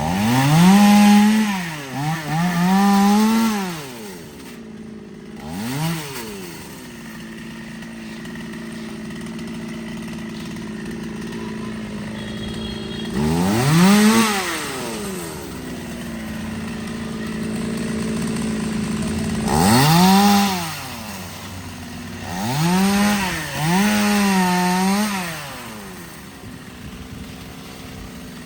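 Chainsaw revved up in about seven bursts of one to two seconds, its pitch climbing and falling back each time, running more steadily between the bursts.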